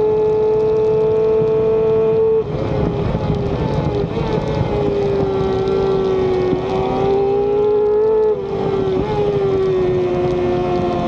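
Race motorcycle engine at high revs, heard onboard with wind noise. The engine note holds high and nearly steady, with brief dips in pitch and loudness about two seconds in and again about eight seconds in.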